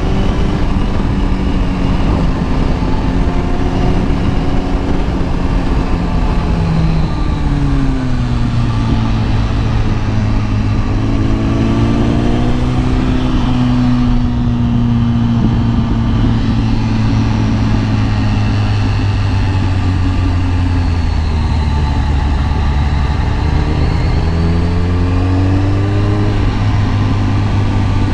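Kawasaki ZX-10R inline-four engine running under way. Its pitch drops about a quarter of the way in, holds steady for a long stretch, then climbs again near the end.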